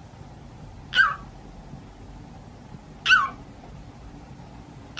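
A parrot giving two short, pitched calls about two seconds apart, each falling in pitch.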